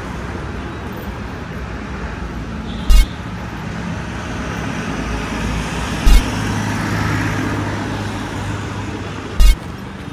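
Motorcycle running along a road: a steady engine hum under road and wind noise, broken three times by short, loud thumps about three seconds apart.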